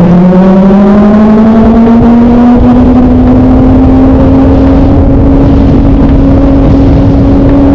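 Kawasaki ZX25R's inline-four engine running loud. Its pitch climbs over the first few seconds, then holds steady at high revs.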